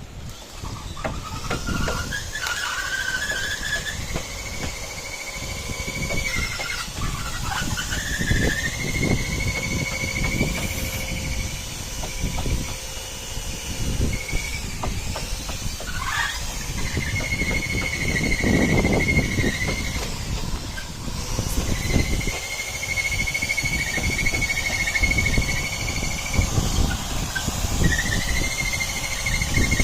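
A handheld electric power tool runs in repeated stretches of several seconds, a single high whine that climbs to speed, dips in pitch as it takes load and stops between passes, over irregular knocking and clatter.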